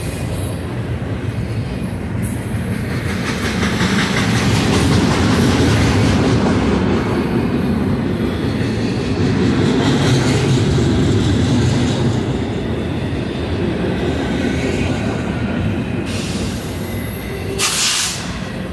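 Double-stack intermodal freight train's well cars rolling past: a steady rumble and rattle of steel wheels on the rails, louder for several seconds in the middle, with a short hissing burst near the end.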